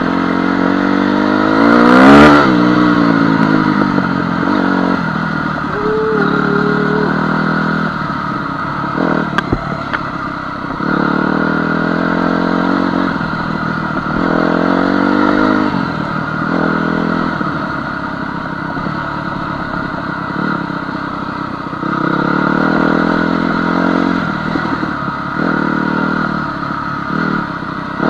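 Honda CR250 two-stroke dirt bike engine being ridden along a trail, its pitch rising and falling with the throttle; the loudest rev comes about two seconds in, with chassis clatter underneath.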